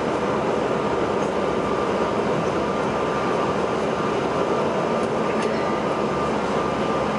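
Steady cabin noise inside a CRJ-900 regional jet: its tail-mounted turbofan engines and rushing airflow, with a thin steady whine running through it.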